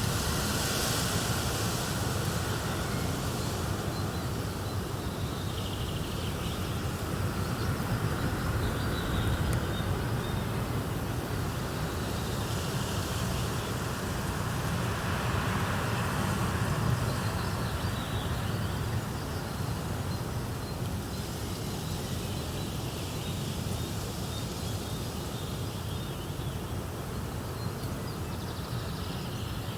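A fireplace crackling over a steady outdoor nature ambience, with faint, repeated bird chirps.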